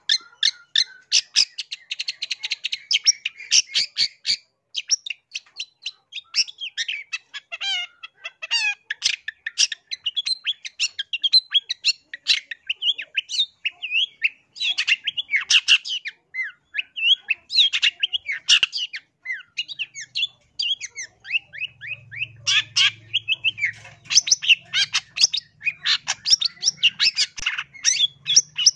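Long-tailed shrike (cendet) singing a fast, continuous run of sharp chirps, trills and harsh squawky notes, with a few brief pauses.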